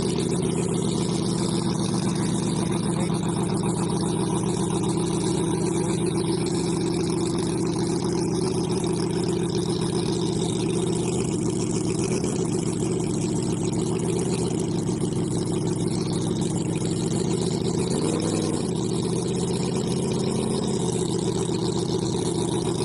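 A model V12 engine running at a steady speed, with a brief waver up and down in pitch about three-quarters of the way through.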